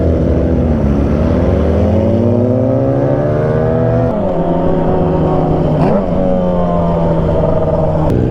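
Yamaha R6 motorcycle's 600cc inline-four engine pulling hard, its pitch climbing through the revs with sudden drops at gear changes about four and six seconds in, then holding fairly steady.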